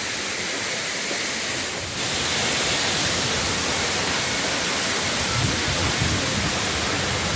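Waterfall: falling water rushing in a steady hiss, a little louder from about two seconds in.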